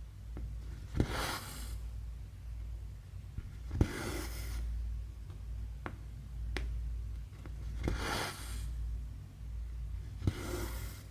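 Cross-stitch needle pushed through 11-count stamped fabric with a sharp tick, then the thread drawn through with a short swish, four times, with faint ticks in between, over a low steady hum.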